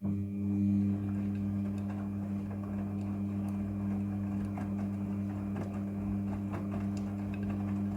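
Front-loading washing machine running a wash cycle: a steady low motor hum with scattered light clicks and taps from the load in the drum.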